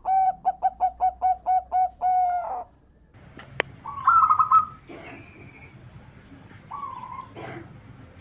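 Zebra dove (perkutut) cooing: a quick run of about eight short, evenly spaced notes ending in a longer held note. After a short pause come a sharp click, a loud warbled call and a few fainter short bird calls.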